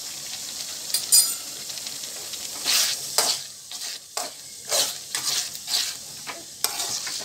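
Tomato-onion masala sizzling in oil in a metal pot while a metal spoon stirs it, scraping through the pot in strokes about twice a second. A sharp metal clink about a second in.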